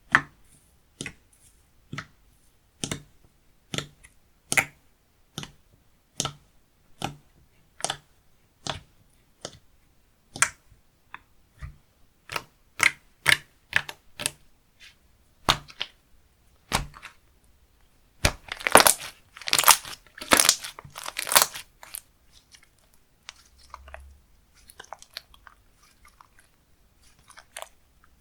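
Slime being pressed and poked by hand, making short sticky clicks and pops about once a second, then a denser, louder run of crackling pops about two-thirds of the way in.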